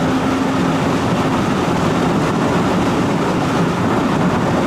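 Steady road noise inside a moving car's cabin: tyre and engine rumble with wind, unchanging throughout.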